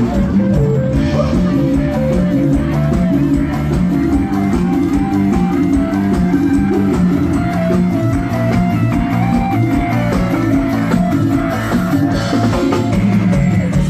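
Live band music with electric guitar and a drum kit keeping a steady beat.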